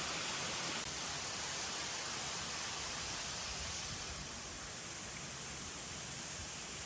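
Steady rushing hiss of a waterfall pouring into a pool, dipping slightly in level about four seconds in.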